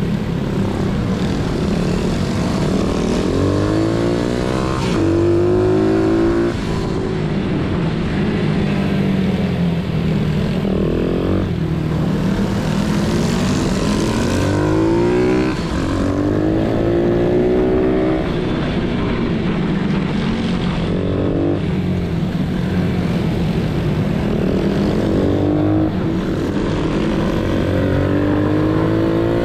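Pit bike engine revving up through the gears several times. Its pitch climbs, breaks briefly at each shift and climbs again, over a steady low drone.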